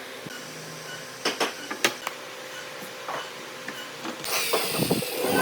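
A few sharp knocks and clicks of wood and tools being handled, then a power tool's motor starts up near the end with a rising whine.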